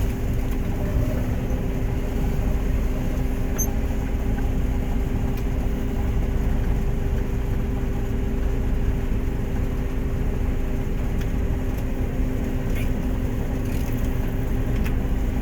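John Deere 9500 combine running steadily under load while harvesting: an even low drone with two constant hum tones.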